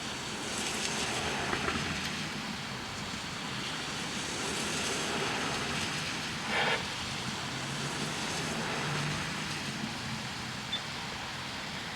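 Road traffic passing, heard as a steady wash of noise that swells and fades twice, with a short high chirp about six and a half seconds in.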